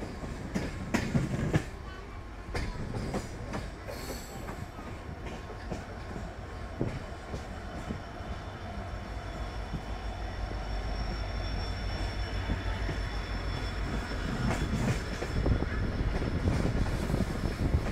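Running noise of an electric suburban train heard from on board: a steady low rumble with sharp knocks of the wheels over rail joints and points, and a faint high whine from about eight seconds in. The noise slowly grows louder.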